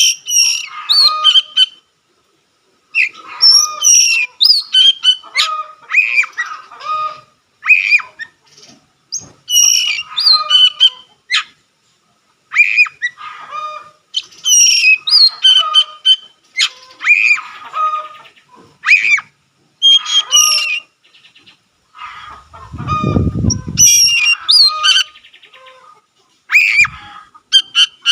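Oriental magpie-robin (kacer) singing at full strength in repeated bursts of varied whistles, trills and harsh chattering notes, with short pauses between phrases. A brief low rumble comes in about three-quarters of the way through.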